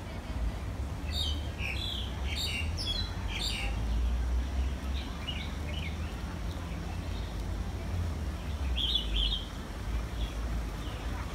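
Small birds chirping in short high calls, a quick cluster of several chirps about a second in and more a few seconds later, over a steady low rumble.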